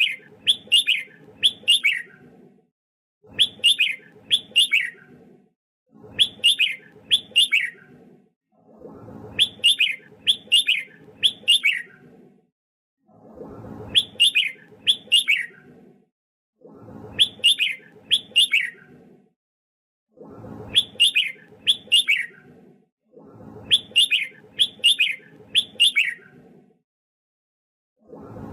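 Red-whiskered bulbul singing its short competitive song: a phrase of three or four quick, clear notes, each sliding downward, repeated about every three and a half seconds with silent gaps between. A low hum sits under each phrase.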